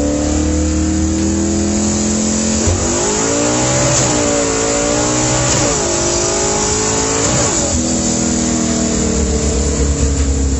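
V8 car engine running and being revved: the pitch swings up and back down several times in the middle, between steadier stretches of running.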